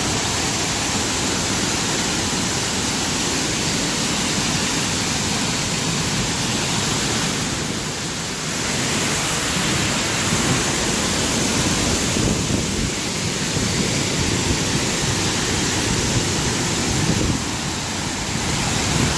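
Steady rush of a 40-foot waterfall pouring over a creek dam, swollen with heavy flow in the rain, easing slightly twice.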